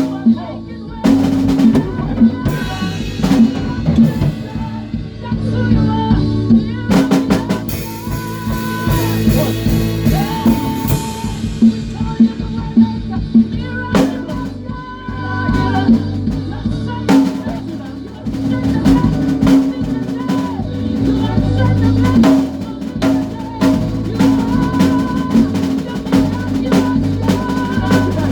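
Live worship band playing an instrumental passage: a drum kit with snare, rimshots and bass drum hitting throughout, over bass guitar and sustained chords.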